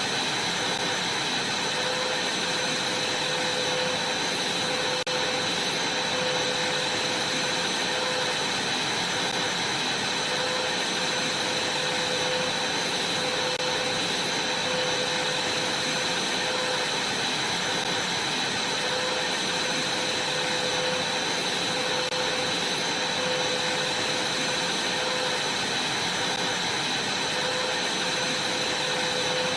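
Vacuum cleaner running steadily as it is worked over a trampoline mat: an unbroken rushing noise with a constant high whine.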